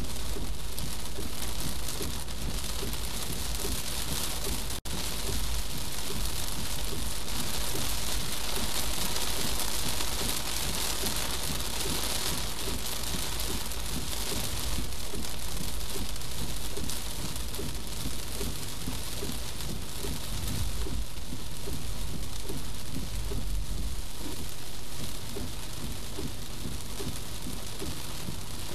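Heavy rain drumming on a moving car's windshield and roof, heard from inside the cabin, as a dense steady hiss over a low rumble from the car and road. The sound cuts out for an instant about five seconds in.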